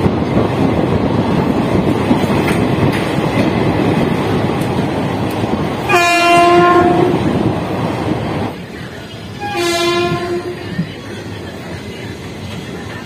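Express train running, its rumble heard from inside a carriage, with the train horn sounding twice, about a second each: once about halfway through and again a few seconds later, the second blast fainter. The running noise drops lower between the two blasts.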